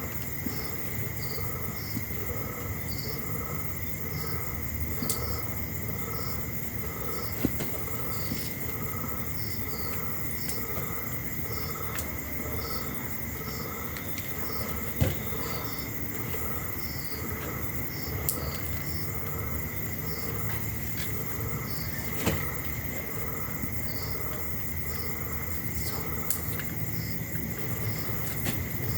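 Evening chorus of night insects such as crickets: a steady high trill with a pulsing call repeating about twice a second, and a few faint knocks now and then.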